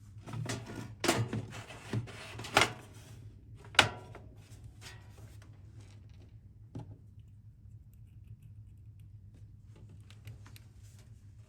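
Hard objects being handled: a run of clicks, knocks and rustling in the first few seconds, one sharp click about four seconds in, then a few faint ticks over a steady low hum.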